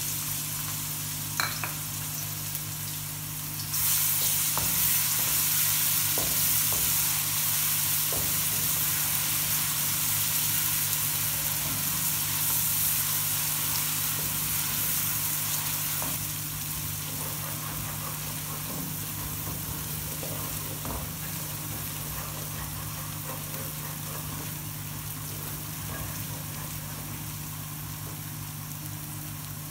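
Ginger-garlic paste sizzling in oil and water in a steel pot while a wooden spoon stirs it. The sizzle swells about four seconds in, then slowly eases off, with light scrapes of the spoon.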